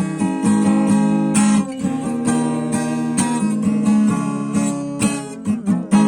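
Acoustic guitar strumming chords at a steady pace. Near the end there is a quick run of strums, and the last chord is left to ring.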